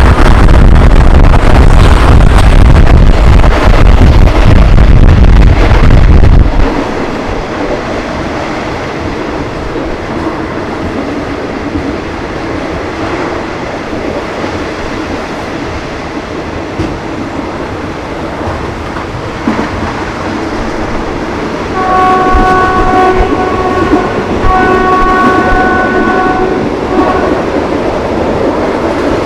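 Passenger train carriage running on the rails, heard at an open window: a heavy wind rumble for the first six seconds or so, then a steadier rolling rumble and rattle. Two long blasts of the locomotive's horn, a chord of several tones, come about two-thirds of the way through, back to back.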